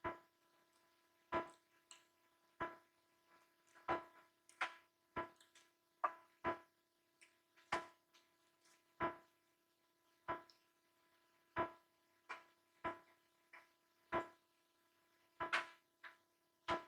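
Close-miked chewing: short wet mouth smacks about once a second, some with a smaller smack just after, over a faint steady hum.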